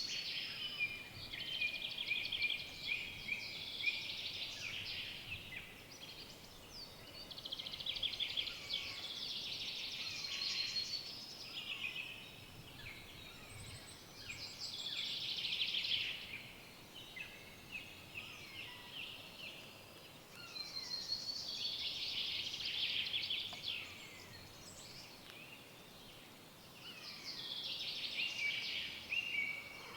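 Forest songbirds singing: a fast, high, warbling song phrase two to three seconds long repeats about every six seconds, about six times, with fainter calls and quieter gaps between.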